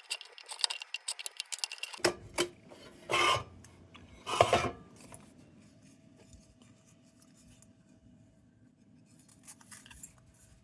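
Small metal clicks and scraping as the lantern's tin crown is worked loose, then two short, louder rasping scrapes about three and four and a half seconds in, after which it goes mostly quiet with a few faint clicks near the end.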